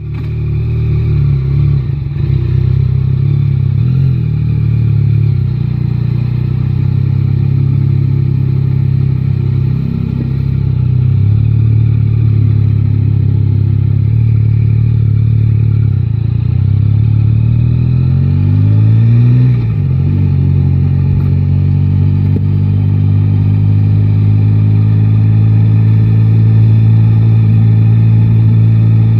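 Yamaha Tracer 9 GT motorcycle's three-cylinder engine running under way in city traffic, heard from the rider's seat. The engine note holds mostly steady, rises in pitch under acceleration a little before two-thirds of the way in, then drops suddenly at a gear change and settles again.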